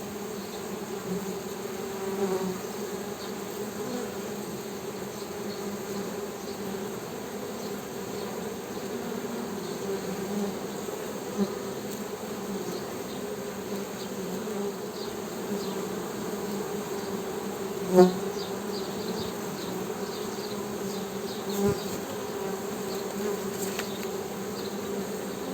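Honey bees humming steadily in a low, even drone, with a brief louder buzz about three quarters of the way through.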